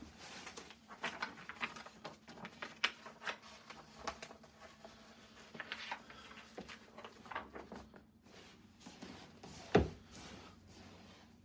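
Scattered small clicks and rustles of handling, with one much louder thump near the end, over a faint steady hum.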